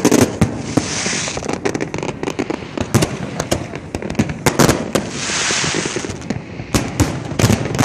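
Fireworks display going off: a rapid, irregular series of sharp bangs and crackles, with hissing washes from bursting shells around a second in and again about five seconds in.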